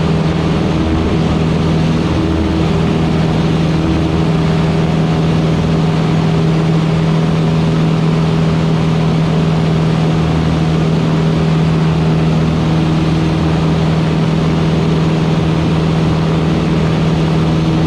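Van's RV-8's piston engine and propeller running at steady climb power, heard from inside the cockpit as a constant low hum over an even rush of noise.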